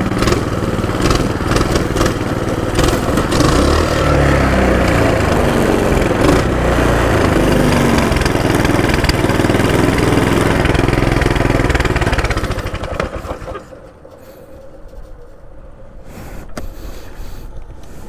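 Mini bike's small engine running loudly, its pitch rising and falling with the throttle. About twelve seconds in the engine sound drops away, leaving quieter background noise and a few clicks.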